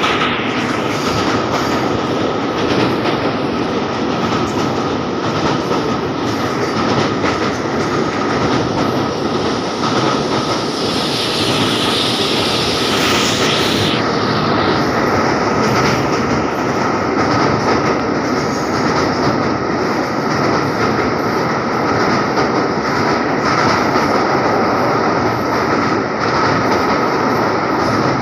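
Express train running steadily over a railway bridge, its wheels clattering on the rails under a constant high ringing tone. Near the middle a brighter hiss swells up for a few seconds and then cuts off suddenly.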